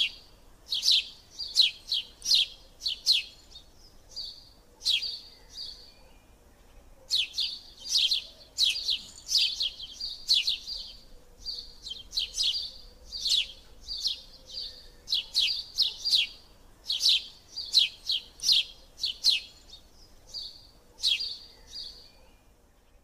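A small bird chirping over and over: sharp, high chirps in quick runs of several a second, with a short pause about four seconds in.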